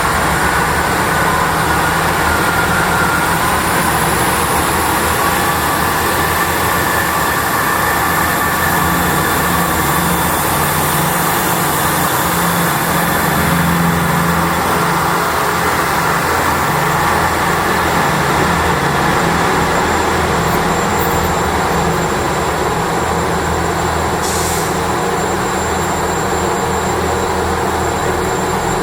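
Train engine running steadily with a low, even hum and some higher whines, one of which rises a few seconds in.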